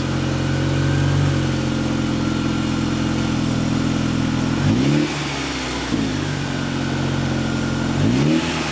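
2015 Honda Civic Si's 2.4-litre four-cylinder engine idling steadily through its exhaust, blipped twice with short revs that rise and fall, once about halfway through and again near the end.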